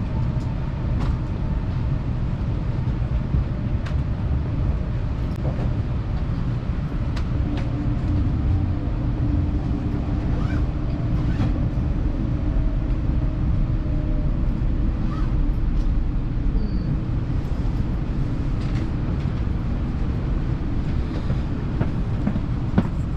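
Cabin running noise inside an N700S Shinkansen car pulling into a station to stop: a steady low rumble, with a faint whine in the middle and occasional light clicks.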